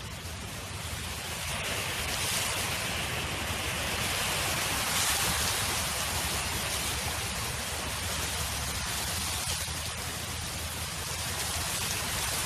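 Wind blowing across a field, a steady rushing noise that swells about two seconds in and eases slightly later on.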